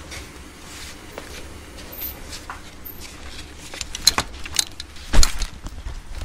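Steady low hum inside a JR East 719 series electric train car, with a few sharp clicks and a heavier thump a little after five seconds in.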